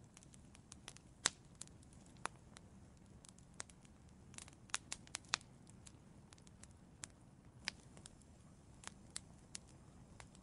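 Wood fire in an outdoor fireplace crackling: irregular sharp pops and snaps over a soft steady hiss of the flames, a few pops much louder than the rest.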